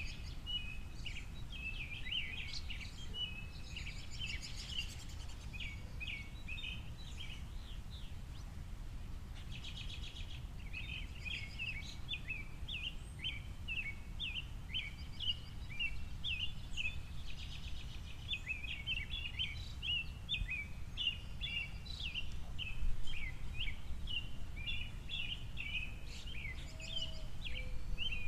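A flock of small songbirds chirping in quick, overlapping short notes, with a short lull about eight seconds in, over a steady low rumble.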